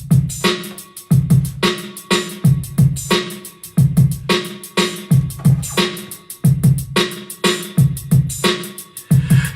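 Electronic drum-machine beat from a Teenage Engineering OP-Z: kick drum hits with fast hi-hat ticks over a steady low bass note, starting abruptly.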